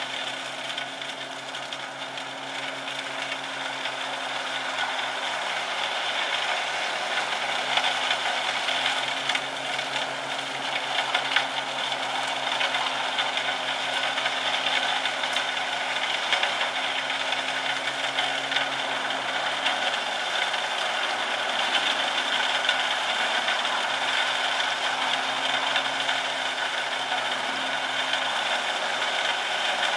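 A wood chipper's engine running steadily under load with a continuous mechanical rattle and scattered knocks, its level building slightly over the first few seconds.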